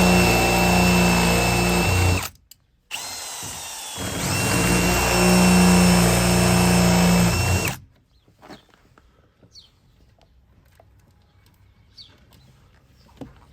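Power drill with an 8 mm bit drilling out the rivets that hold a car door speaker. It runs, stops briefly about two seconds in, runs again and speeds up a little after four seconds, then stops near eight seconds in.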